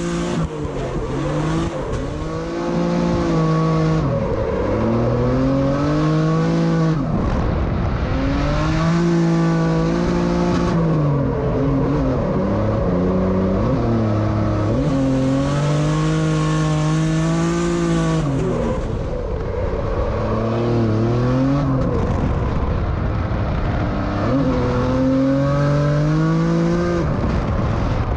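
Drift car's engine heard from inside the cabin, revving up hard and dropping back again in repeated surges as the car is driven through corners, with tyre noise under it.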